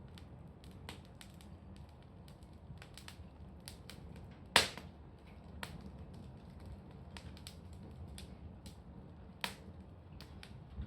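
Wood bonfire crackling with sharp, irregular pops over a low, steady rumble; the loudest pop comes about four and a half seconds in, and another just before the end.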